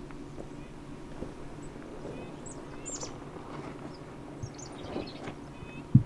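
Small birds chirping and whistling in short calls over a faint steady low hum, with a single sharp thump right at the end.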